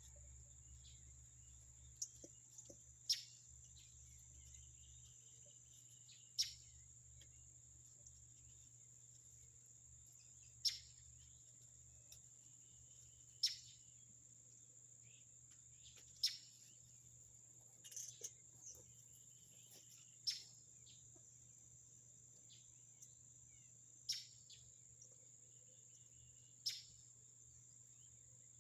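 Insects, crickets or the like, keeping up a steady high-pitched drone. Over it comes a short, sharp sound that drops quickly in pitch, repeated about every three seconds.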